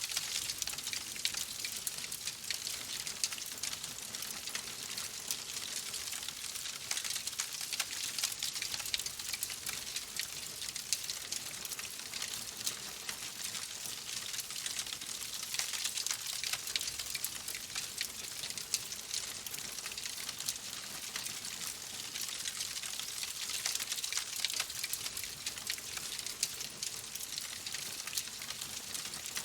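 Wood fire crackling in a fireplace: dense small pops and snaps over a steady hiss.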